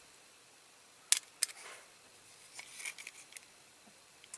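Two sharp clicks a little over a second in, then a scatter of fainter ticks and light scrapes: small parts of a die-cast metal toy car being handled and picked at while a tabbed-in bonnet is worked loose.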